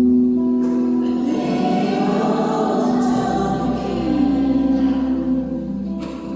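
Choral music: voices holding long, sustained chords.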